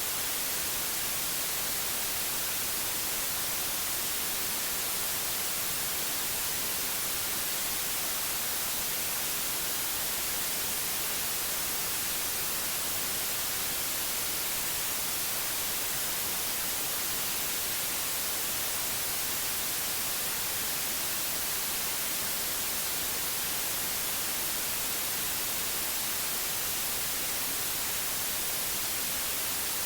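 Steady white noise: an even hiss, strongest in the high end, with no change or break.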